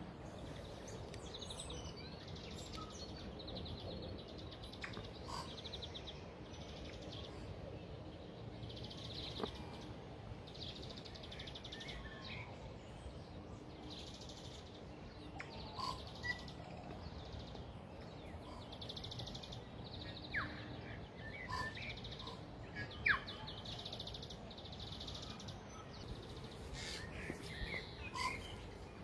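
Birds chirping in bush, with repeated short, high trilling bursts every second or two and scattered brief calls, over a steady background hiss.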